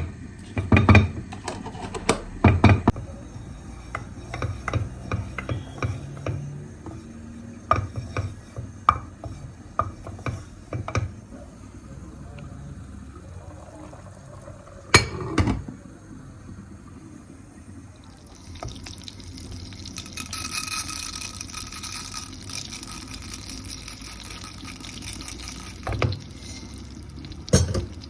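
Home cooking sounds: scattered clicks and knocks of utensils and kitchenware, with one louder knock about halfway through. About two-thirds of the way in, a steady hiss sets in and runs on.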